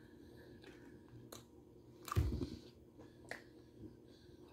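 Close-up mouth sounds of a person chewing a sausage, with a few soft clicks and one louder thump a little past halfway.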